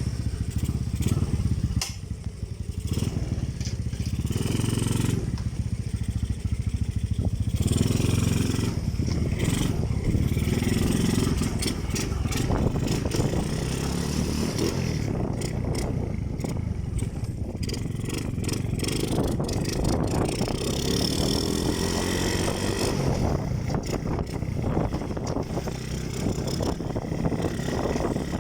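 Motorcycle engine running steadily after starting, its pitch rising and falling now and then.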